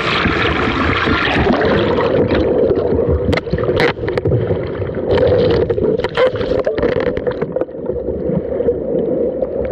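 River water rushing and splashing around a canoe. Several sharp knocks come from about three seconds in.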